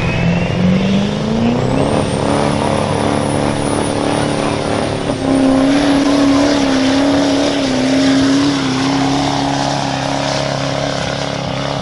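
A pulling vehicle's engine revs up over the first two seconds, then holds high, steady revs under full load down the track, with a thin high whine above it.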